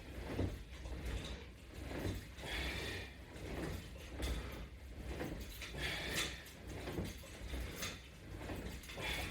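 A person doing abdominal crunches: soft rubbing and creaking of body and exercise gear at about one stroke a second, with a louder hissing rustle about every three seconds.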